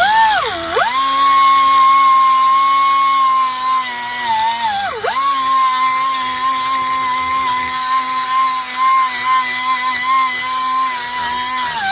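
Central Pneumatic air-powered straight die grinder with a carbide burr running at a steady high whine while grinding corrosion out of a wheel hub bore. Its pitch drops sharply three times, at about half a second, about five seconds and near the end, as the cutter is pressed into the metal, then climbs back.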